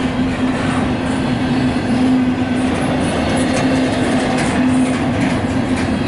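Double-stack intermodal freight train rolling past close by: steady noise of the loaded well cars' wheels on the rails with light clicking, over a steady low drone that swells now and then.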